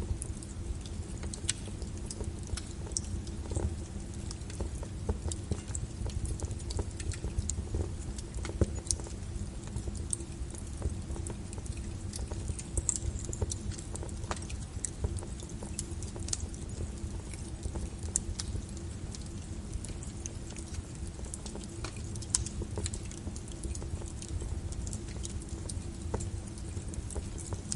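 Fire crackling in a fireplace: irregular sharp snaps and pops, many of them, over a low steady rumble.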